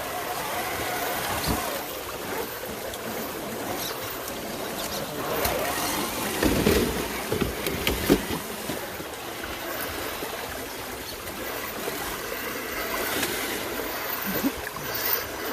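Running water, a steady stream-like rush, with a few louder knocks and splashy rustles about six to eight seconds in.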